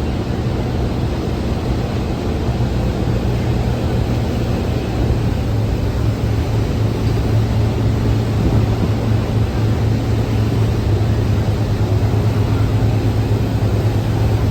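Thames Clipper river boat's engines running with a steady low drone, under an even rushing noise, growing slightly louder about a third of the way in.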